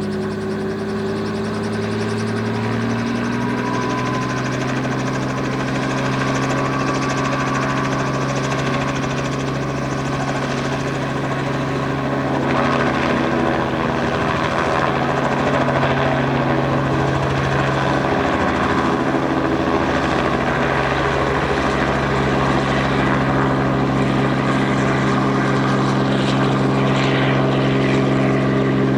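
Helicopter running, its engine and rotor tones rising in pitch over the first few seconds and then holding steady, the sound slowly getting louder.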